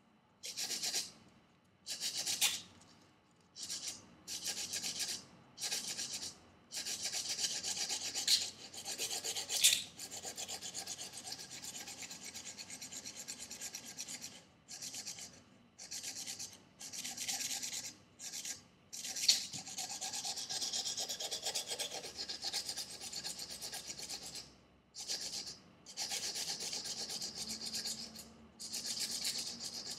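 Knife blade drawn stroke after stroke across 320-grit sandpaper backed by a leather strop, grinding a convex edge: a dry, hissing scrape with each pass. Short separate strokes about a second apart come first, then longer unbroken runs of back-and-forth passes, then separate strokes again near the end.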